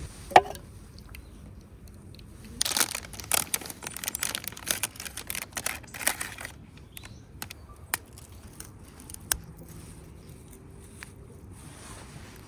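Crinkling rustles and a few sharp clicks, as of something being handled, with the busiest rustling in the middle stretch.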